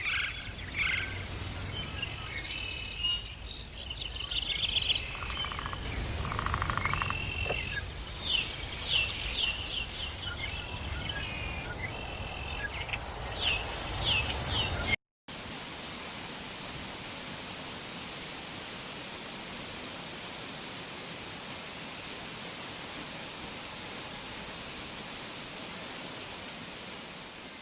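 Songbirds chirping and trilling in quick repeated phrases over a low rumble. About halfway through the sound cuts off abruptly and gives way to a steady, even rushing hiss.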